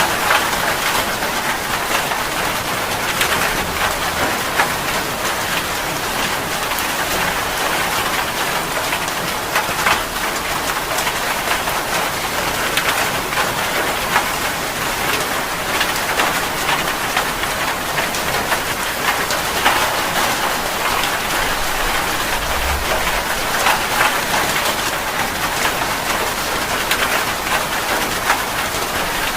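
Steady heavy rain, countless drops striking a surface in a dense continuous hiss with individual drop ticks. A brief low thump comes about 22 seconds in.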